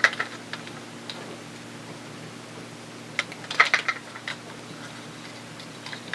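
Light clicks and taps of hard plastic toy parts being handled and fitted, with a cluster of them about three and a half seconds in, over a faint steady hum.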